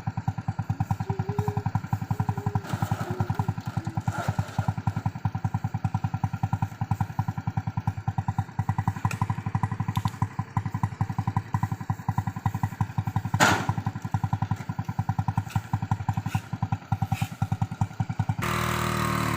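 Single-cylinder Honda Revo motorcycle engine of a homemade vehicle running at low revs, its exhaust beat a rapid, even pulse. There is one loud thump about two-thirds of the way through. Near the end the sound changes abruptly to a smoother, steady hum.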